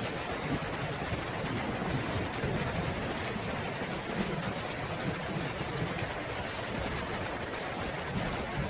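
Steady rainfall, an even hiss of rain on surfaces, with faint low rumbling underneath.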